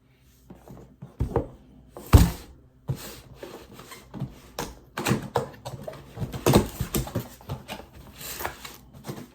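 Packaging and parts being handled: irregular rustling and clatter, with the loudest knock about two seconds in.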